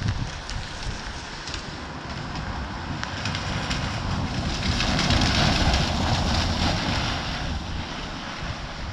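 Storm rain and gusting wind buffeting the microphone, with scattered drops ticking. The noise swells to its loudest about five to seven seconds in, then eases.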